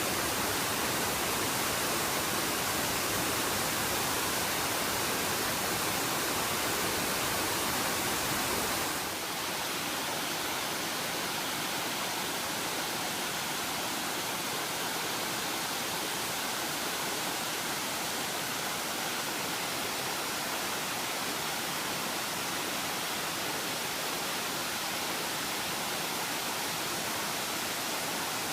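Waterfall rushing, a steady roar of falling water. About nine seconds in it drops a little in level and loses some of its low rumble, as from a different fall or a different spot.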